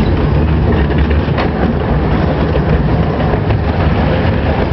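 Miniature steam train running along its track, heard from aboard: a steady rumble of the cars on the rails with a few faint clicks.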